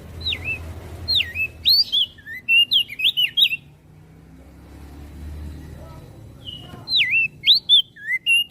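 Crested white-eye (opior jambul) singing: two quick phrases of sharp, sweeping whistled notes, the second starting about seven seconds in, with a pause between them.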